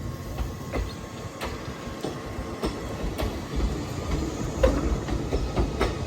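381 series electric train rolling slowly through a yard during shunting, with a low rumble and irregular clicks and knocks as its wheels pass over rail joints and points.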